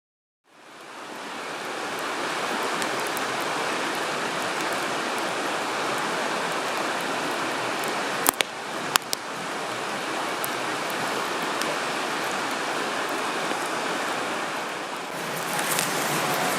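Steady rush of running water, fading in at the start, with two sharp pops of burning campfire wood a little past the middle.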